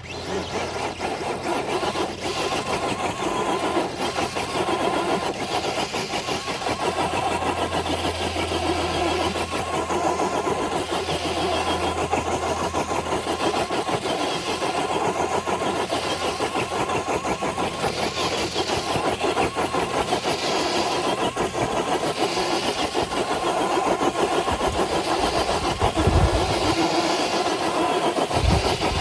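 Traxxas TRX4 RC crawler's electric motor and geared drivetrain running steadily under load as it drags a weighted pulling sled. A couple of low thumps come near the end.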